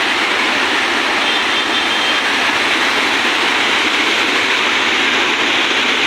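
Fast-flowing floodwater rushing, a loud, steady noise that does not change.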